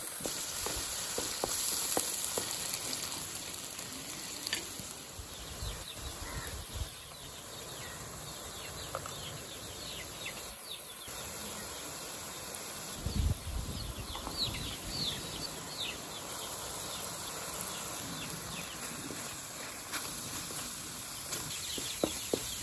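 Onion-tomato masala sizzling in a steel kadai as it fries, with a wooden spatula stirring and scraping it and scattered taps against the pan.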